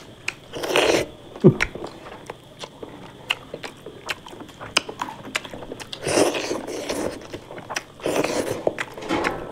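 A person biting and chewing food, with many short crunchy clicks and louder stretches of chewing about a second in, around six seconds in and around eight seconds in.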